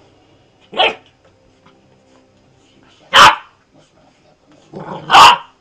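A dog barking three times, a couple of seconds apart; the second and third barks are the loudest.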